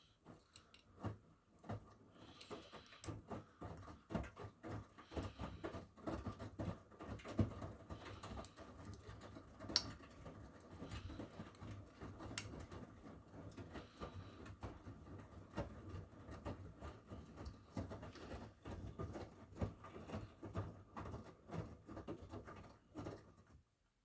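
Miele W1 front-loading washing machine's drum turning during the wash cycle, wet laundry tumbling with irregular soft thuds and splashes over a steady motor hum. It cuts off shortly before the end.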